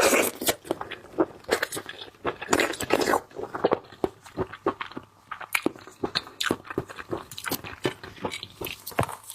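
Close-miked wet chewing and mouth smacking as a person eats raw oyster, with many quick irregular clicks.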